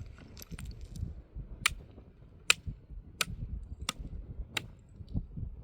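Five sharp knocks, evenly spaced about two-thirds of a second apart, over a low rumble.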